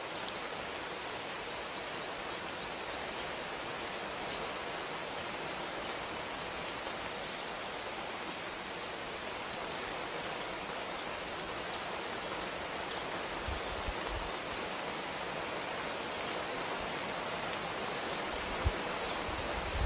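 Steady rain falling, an even hiss throughout, with a faint short high bird chirp repeating about once a second. A few soft low thumps near the end.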